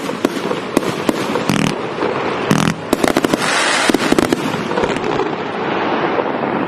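A 238-shot consumer fireworks cake firing rapid launches and bursts, with dense crackle between the sharp bangs.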